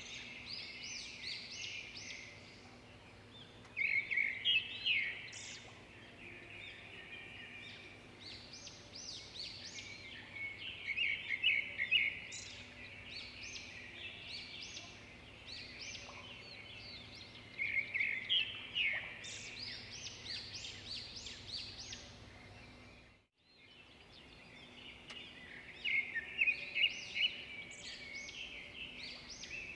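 Small birds chirping in repeated bursts of quick chirps, over a faint steady hum. The sound cuts out completely for a moment about three-quarters of the way through, like a break in a looped recording.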